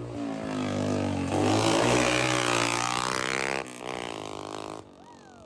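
Small dirt bike engine running loud through a cracked exhaust pipe broken near the engine. It gets louder about a second in, then eases off and fades near the end.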